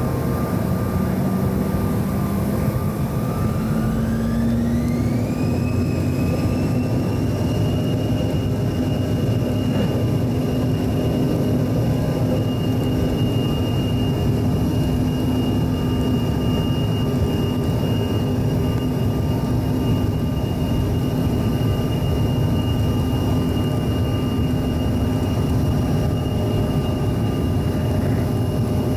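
Bombardier CRJ-900's rear-mounted GE CF34 turbofans heard from inside the cabin, spooling up with a rising whine between about three and six seconds in, then holding a steady high whine over a loud, even rumble. This is typical of thrust being set, as for the takeoff roll.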